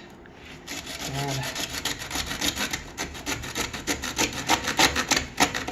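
Hand saw cutting through a plastic (PVC) sink drain tailpiece, in rapid back-and-forth strokes.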